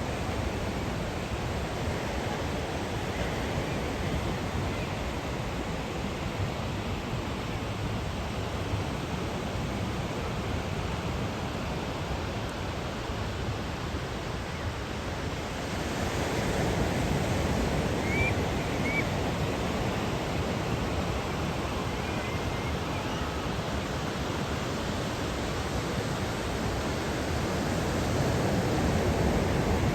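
Ocean surf from typhoon swell breaking on a beach: a steady rushing roar that swells louder about halfway through and again near the end.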